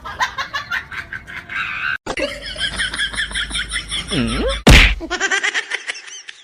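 A single loud, sharp slap about three-quarters of the way in, amid high, wavering pitched sounds.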